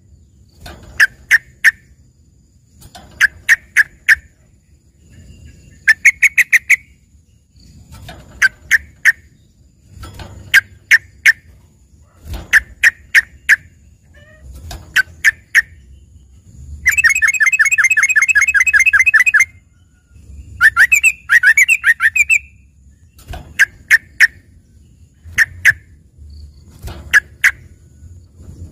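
Yellow-vented bulbul (trucukan) singing a song filled with mimicry that sounds like a singing cucak ijo (greater green leafbird). It gives short bursts of three to five quick, sharp notes every second or two, with one longer, fast trill a little past halfway, followed by a warbled phrase.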